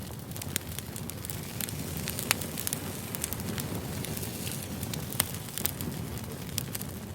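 Wood fire burning, with a steady low rumble and irregular sharp crackles and pops, a few louder snaps among them.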